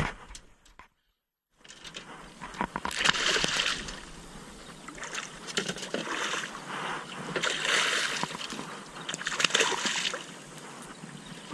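Water splashing and sloshing in irregular bursts, with small clicks, after a brief dead-silent gap about a second in.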